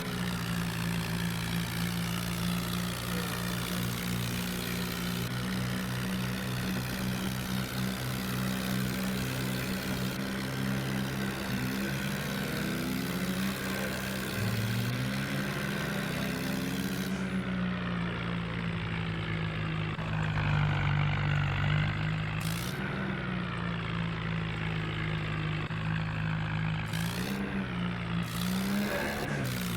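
Swaraj 744 tractor's diesel engine running steadily, its pitch rising and falling a few times as the revs change.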